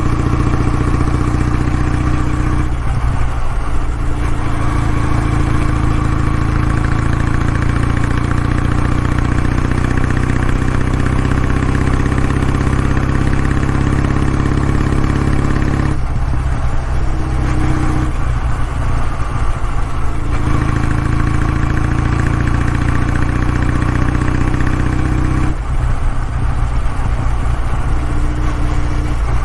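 Kawasaki W650's air-cooled parallel-twin engine running, its exhaust note steady, with the note briefly changing three times: about three seconds in, in the middle, and near the end.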